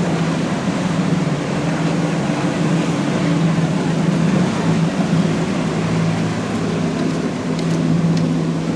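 Powerboat engines running at a steady drone as a boat moves through the inlet, with the rush of water and hull wash underneath.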